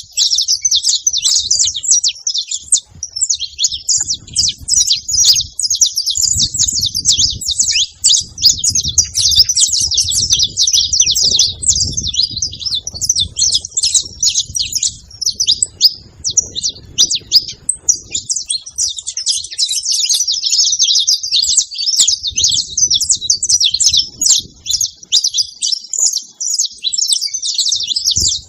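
Several saffron finches (canários-da-terra) chirping and singing together in a dense, unbroken chorus of rapid high notes.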